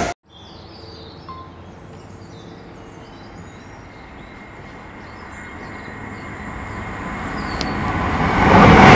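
A loud train sound cuts off abruptly at the start, leaving faint birdsong over a low background hum. From about five seconds in, an approaching passenger train's rumble builds steadily and is loud by the end.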